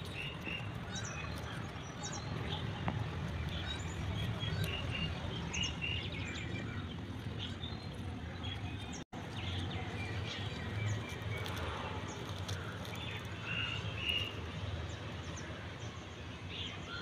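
Small birds chirping in short, scattered calls over a steady background hum of outdoor noise.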